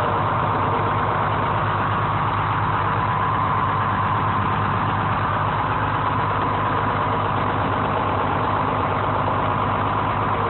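Diesel engine of a 1970 American 7510 crane running steadily at a constant speed.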